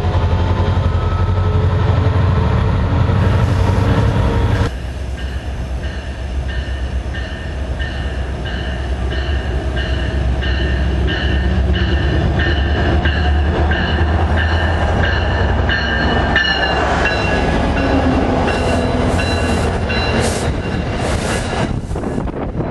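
A passenger train passing close by. A locomotive's loud engine rumble cuts off about four and a half seconds in as it goes past. The cars then roll by with a steady rolling noise and a regular high ringing repeating a little under twice a second.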